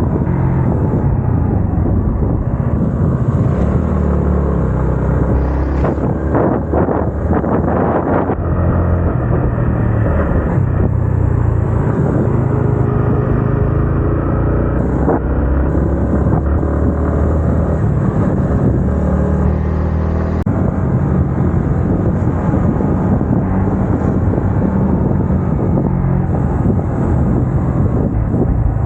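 Yamaha MT-15's 155 cc single-cylinder engine running while riding, its exhaust note rising and falling with the throttle, with wind rushing over the microphone.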